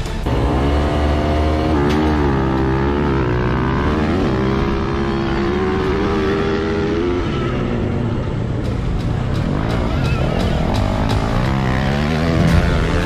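Dirt bike engine revving, its pitch rising and falling repeatedly as the throttle is blipped.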